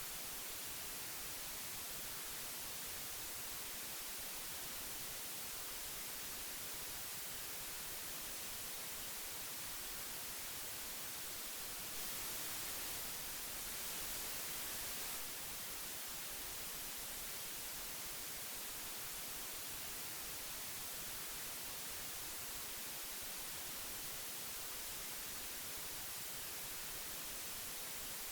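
Steady hiss of old magnetic audio tape, strongest in the high end. About twelve seconds in it gets slightly louder and brighter for roughly three seconds.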